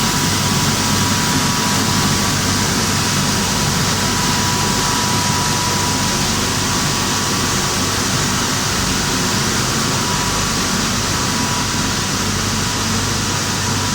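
Rice milling machinery running steadily: an even mechanical din with a low hum and a thin, steady whine above it.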